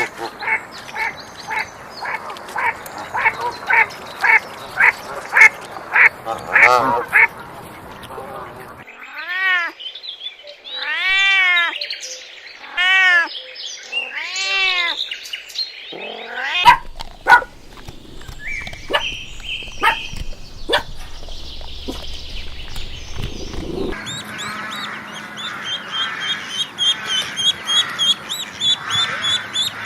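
A string of animal calls: duck quacking about twice a second for the first several seconds, then a few long calls that rise and fall in pitch, and rapid high chirping toward the end.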